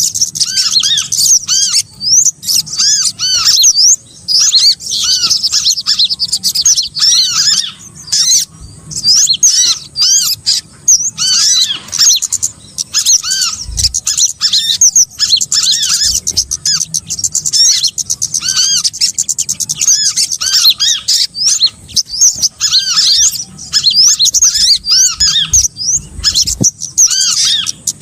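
Bird-lure recording of small songbirds: dense, rapid chirping and squeaky calls, with short arched notes repeating over and over and a busy chatter of higher calls, broken by brief pauses. A faint low hum runs underneath.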